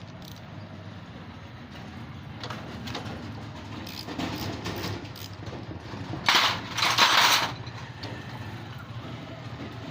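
Hand tools working on a Honda CD70 engine while a 14 mm nut is undone: light metal clicks, then two loud, short hissing bursts a little after six and seven seconds in, over a steady low hum.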